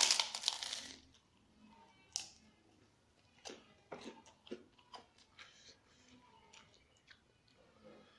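Mouth sounds of eating kerupuk, crispy Indonesian crackers: a loud crackling crunch about a second long as a piece is bitten, then scattered crisp chewing crunches at irregular intervals.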